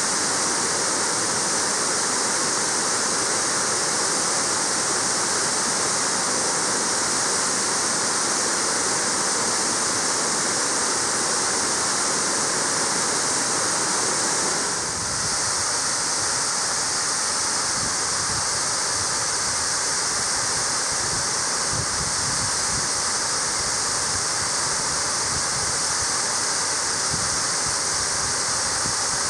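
Steady rushing roar of water plunging down Marugami Falls, a full, continuous sound of falling and splashing water. About halfway through it dips briefly, and after that irregular low rumbles come and go beneath the rush.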